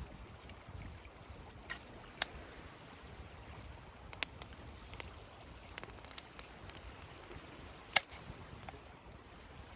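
Wood campfire crackling: a scattering of sharp single pops, the loudest about two seconds in and about eight seconds in, over the steady rush of a mountain stream.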